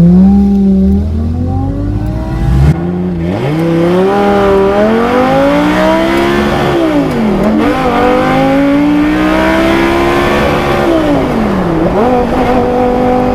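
Audi R8 V10 engine accelerating hard through the gears. The revs climb, then drop sharply at each upshift, about three times, and settle to a steady pitch near the end.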